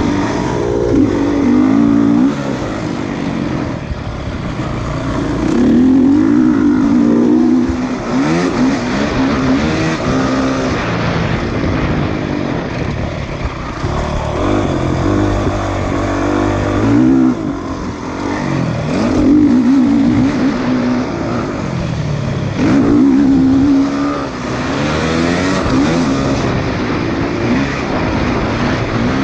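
Motocross dirt bike engines revving, the pitch rising and falling over and over in repeated loud bursts.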